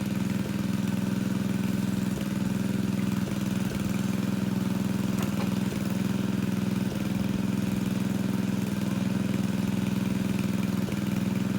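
Engine of a water pump draining a fish pond, running steadily at a constant speed with a low, even drone.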